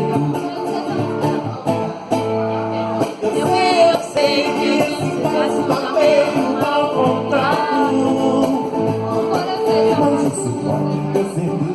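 Live bar music: a guitar playing with a voice singing over it, the voice coming in about three seconds in.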